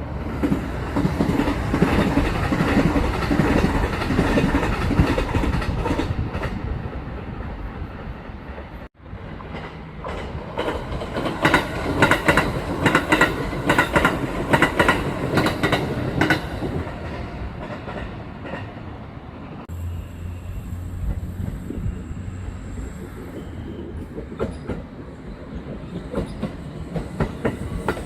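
Kintetsu electric trains passing at speed: a steady rumble of wheels on rail, then, after a cut, a run of rhythmic clickety-clack as the wheels cross rail joints. Near the end the noise eases to quieter running with a steady low hum.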